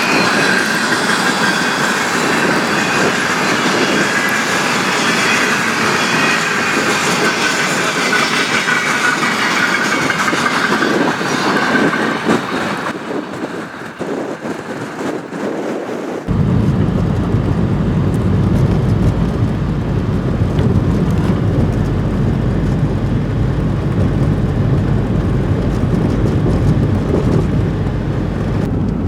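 Union Pacific freight train rolling past, its wheels squealing in several high tones over a loud clatter of railcars. The train sound fades after about twelve seconds, and a few seconds later it gives way abruptly to a steady low rumble.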